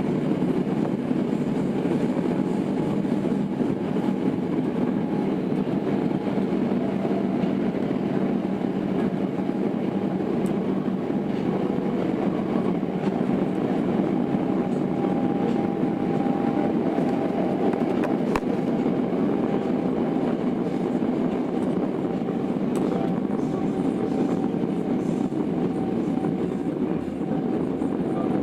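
Tokyo Metro 02 series subway car with IGBT inverter drive running at steady speed, heard from inside the car: an even rolling rumble of wheels on rail with a faint steady whine. A couple of sharp clicks come from the track about a third and two thirds of the way through.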